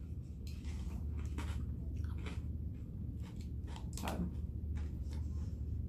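A person chewing food close to the microphone: irregular wet mouth clicks and occasional crunches, over a steady low hum.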